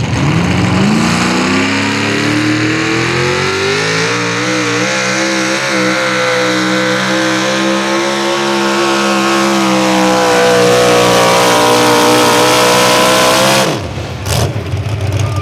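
Modified 4x4 pulling truck's 650 cubic-inch naturally aspirated big-block Chevrolet engine at full throttle pulling the sled. The engine note climbs over the first few seconds and then holds high. Near the end the throttle is cut suddenly and it drops to a low idle.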